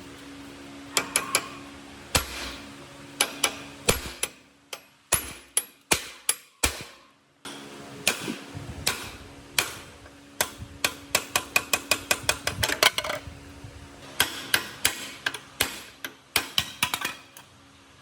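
Hammer blows on metal, sharp ringing knocks in quick runs with short pauses, over a faint steady hum.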